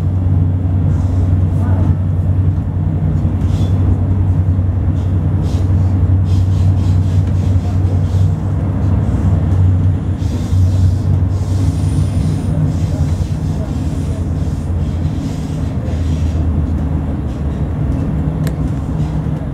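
Running noise of a double-decker passenger train heard from inside the carriage: a steady low rumble, with a light hiss that grows for a few seconds about halfway through.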